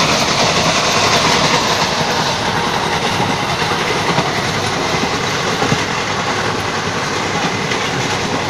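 Indian Railways express passenger coach running fast, heard from inside through an open barred window: a loud, steady rolling noise of wheels on the rails.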